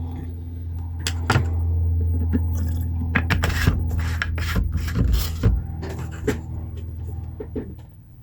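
Rubbing and scraping handling noises with a few sharp clicks, over a steady low electrical hum that fades near the end.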